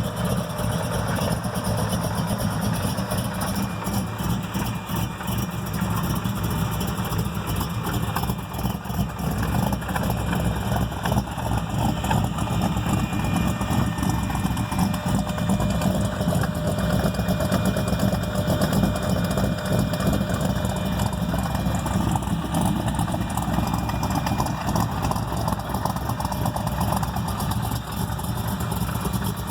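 406 cubic-inch V8 with a Comp 292 Magnum camshaft idling steadily with a very rough, choppy idle from the big cam, through 1 7/8-inch headers.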